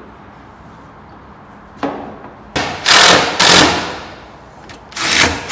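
Work noise from fitting a car's front bumper: four short, loud bursts of rattling, clattering mechanical noise, each starting sharply and fading, the longest two back to back around the middle.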